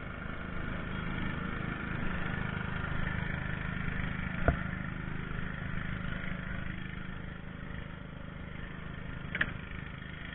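A vehicle engine running steadily with a low rumble, with a sharp click about halfway through and a short squeaking knock near the end.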